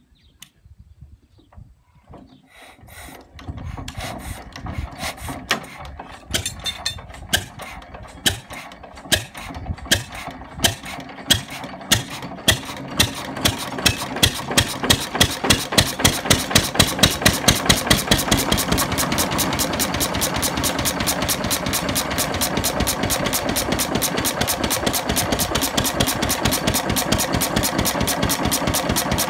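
Hand-crank-started engine with a compression release coming to life: after a couple of seconds of quiet it begins turning, then fires in separate loud beats, at first about one a second and quickening, until about 18 s in it settles into steady, even running.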